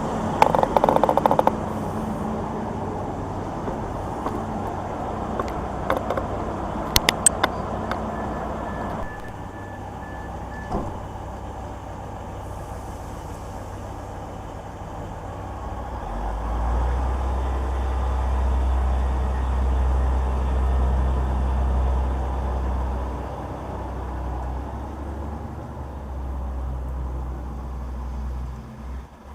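A heavy vehicle's engine rumbling low, building about halfway through and holding for some ten seconds before easing off near the end. A few sharp clicks come in the first seconds and again about seven seconds in.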